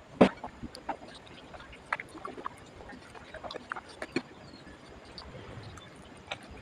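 Close-up eating sounds of someone eating paneer veg steamed momos: irregular chewing and mouth clicks, with one sharp click about a quarter second in.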